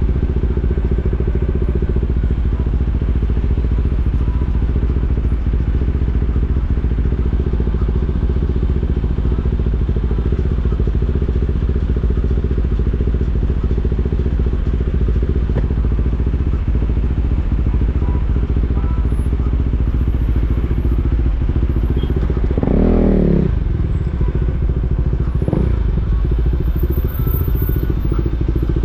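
KTM 390 Duke's single-cylinder engine running steadily at low revs in stop-and-go traffic. About two-thirds through, a brief louder burst with a sliding pitch, followed by a smaller one a few seconds later.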